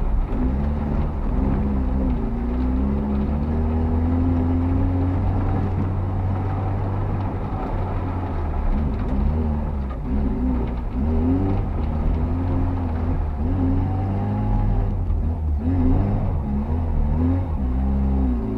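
Škoda 130's rear-mounted four-cylinder engine heard from inside the car while driving. It runs steadily for several seconds, then revs up and drops back again and again. The engine is reluctant to rev, as the driver complains about this drive.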